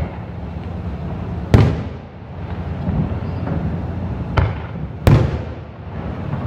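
Aerial firework shells of a Japanese fireworks display bursting in three sharp bangs. The first, about one and a half seconds in, is the loudest; the other two come close together near the end, over steady background noise.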